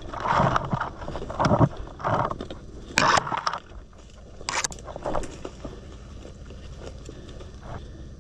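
Footsteps and rustling of clothing and gear while walking through grass and brush, with irregular scrapes and two sharper brushing sounds in the first half, then settling to a quieter steady hiss.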